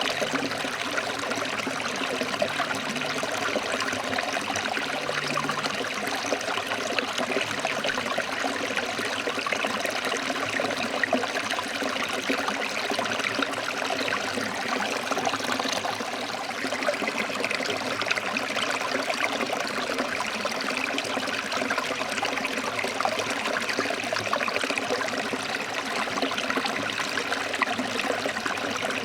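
A forest stream flowing and splashing over rocks, a steady rushing with fine trickling detail.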